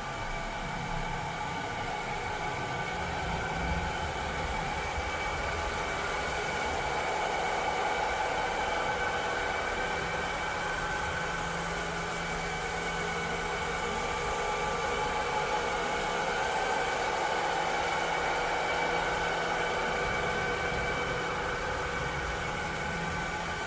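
Robotic cleaner running steadily: a continuous motor whir with several held humming tones over a hiss, slowly swelling and easing in loudness.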